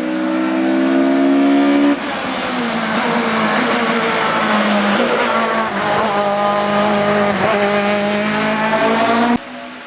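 Hillclimb race car engines running hard under load, in separate edited clips: the revs climb and drop through gear changes, with sudden cuts from one car to the next about two seconds in and near the end.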